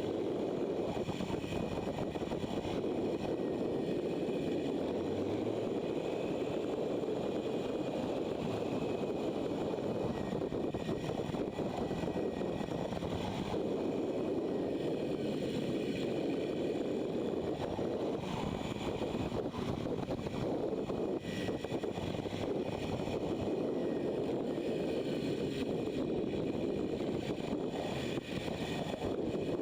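Motorcycle riding at steady speed: a constant rush of engine, tyre and wind noise on the microphone, with no clear changes in pace.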